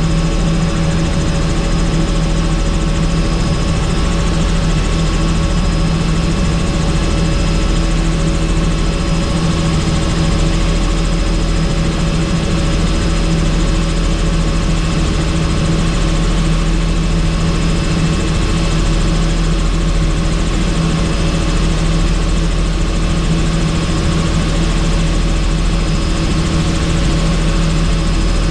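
Helicopter in flight: a steady, loud drone of engine and rotor with a constant hum over rushing noise, unchanging throughout.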